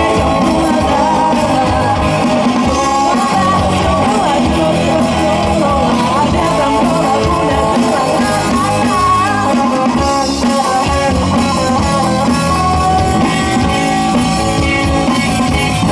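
Live rock band playing, with guitar and a singing voice.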